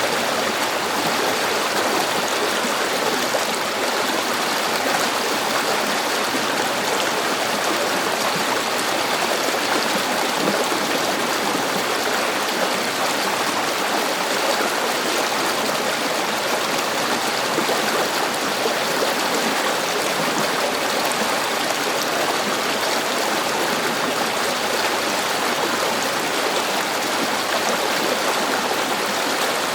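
A river's flowing water running steadily, an even rushing with no breaks or single splashes.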